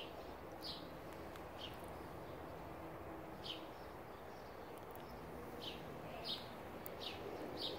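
A bird chirping in the background: about seven short, high chirps, each a quick downward sweep, at irregular intervals over a faint steady outdoor hiss.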